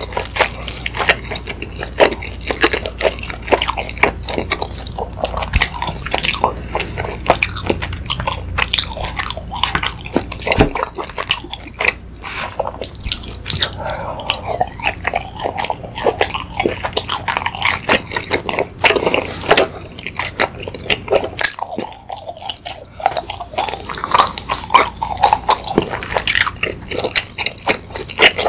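Close-miked chewing and biting of food: a steady run of wet clicks and smacks from the mouth.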